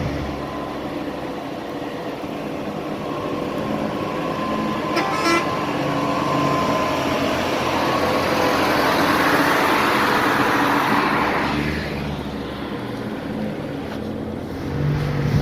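Road traffic of trucks on a mountain road: engines running, with a louder passing vehicle rising about eight seconds in and cutting off near twelve seconds.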